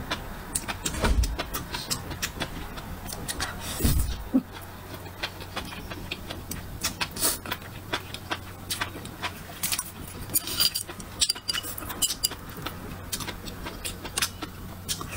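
Close-miked eating: a person chewing and biting into food, making many sharp mouth clicks and smacks. There are two low thumps about a second in and again about four seconds in.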